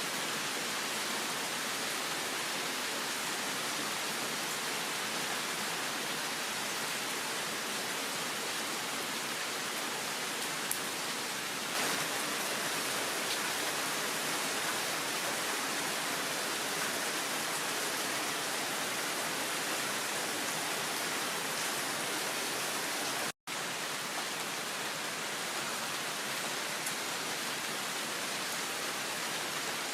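Heavy rain pouring steadily in a downpour, an even hiss with no let-up, broken by a split-second dropout to silence about three-quarters of the way through.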